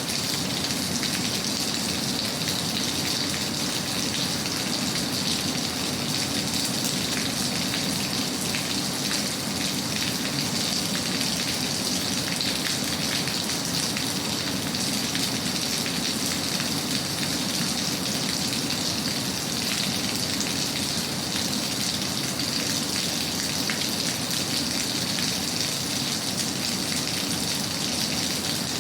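Steady rain, an even hiss of falling drops that doesn't change.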